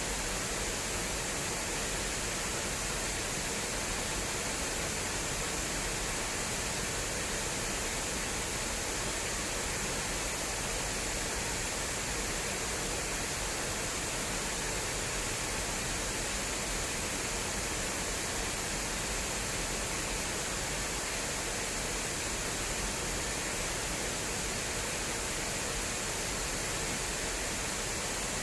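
Water rushing steadily down an irrigation channel, a constant even roar of flowing water with no breaks.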